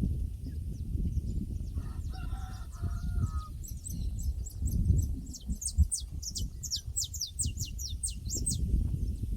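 Countryside ambience: a rooster crows once, faint and distant, about two seconds in. Then a small bird sings a fast run of high, descending chirps for about five seconds, over a steady low rumble.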